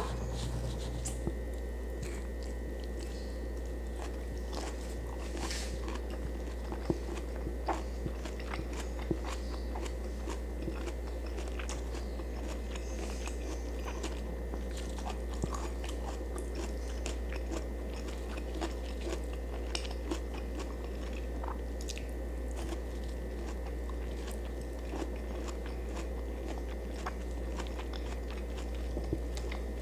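A person chewing food close to the microphone, with many scattered sharp mouth clicks, a few of them louder, over a steady low hum.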